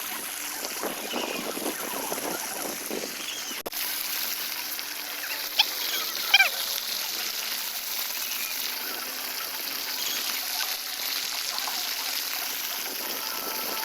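Water trickling and splashing steadily as a newly planted plant is watered. A couple of brief high chirps come about six seconds in.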